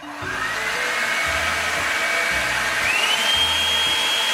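Revlon One Step hot-air brush dryer switched on: its motor spins up with a rising whine over steady rushing air. About three seconds in the whine jumps to a higher pitch and holds.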